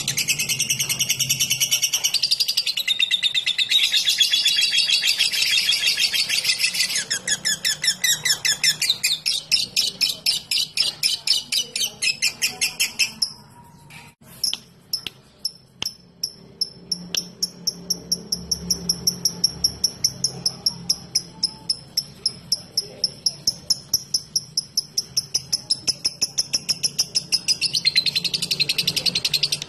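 Lovebird chattering in a long, fast string of high, shrill notes ("ngekek panjang"). About halfway it breaks off for a moment with a few clicks, then resumes as an evenly paced run of sharp ticking notes ("ngetik").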